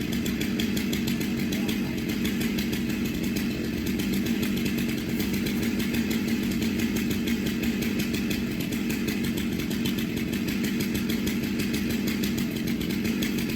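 Small engine running steadily at an even speed, with no change in pitch or level.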